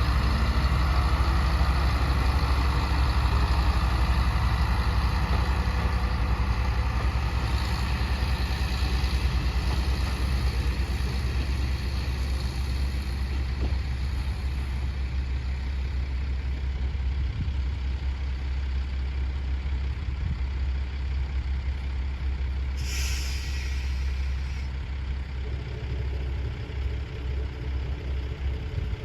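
Diesel railcar engine running with a steady low drone that slowly fades, with a hiss of compressed air from the brakes lasting about two seconds partway through.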